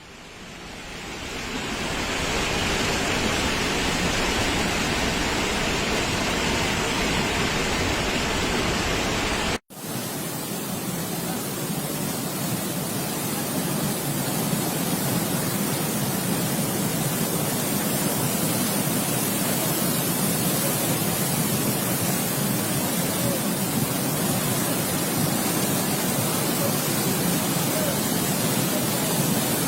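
Heavy rain pouring steadily, an even hiss. It swells up over the first couple of seconds and drops out for an instant about ten seconds in, then carries on.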